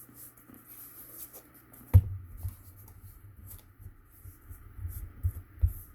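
Handling sounds of cardstock being folded and pressed onto a cardboard cracker box: a sharp knock about two seconds in, then irregular low thuds and light rustling.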